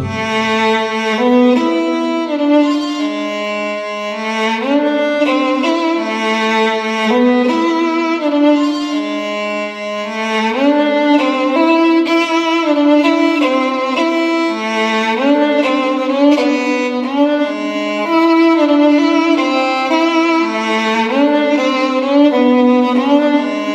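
Solo violin playing a melody with sliding notes, unaccompanied, nothing sounding below its lowest string.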